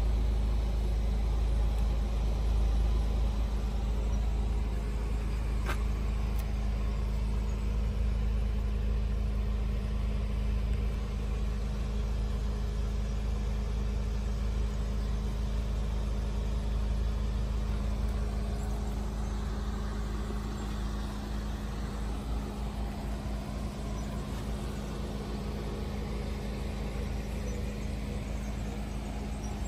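Volkswagen Golf GTI's 2.0 TSI four-cylinder idling steadily, a low rumble with a constant hum, easing slightly in the last third. A single short click about six seconds in.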